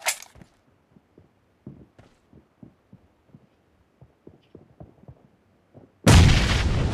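Video-game shooter sounds: soft low thuds a few times a second, then about six seconds in a loud burst of automatic gunfire starts suddenly.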